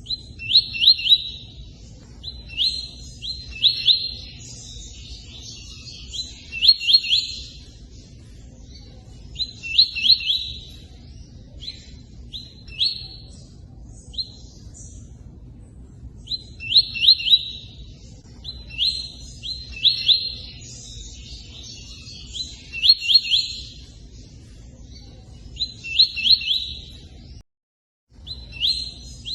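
Tui-tui songbird singing repeated short phrases of a few sharp, quick notes, one phrase every two to three seconds. Under the song runs a steady hiss of running water. Both briefly cut out near the end.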